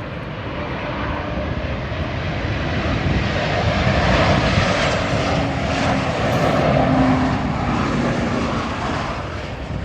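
Airliner engines passing close by, swelling to a loud peak about halfway through and then fading.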